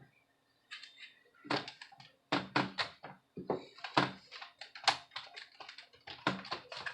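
A quick irregular run of sharp clicks and taps from hands handling small screws and tools against a laptop's plastic case.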